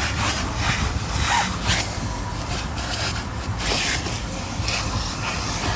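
A vacuum cleaner runs with a steady low hum while its nozzle is rubbed and scraped over the car's interior, giving irregular scratchy sweeps.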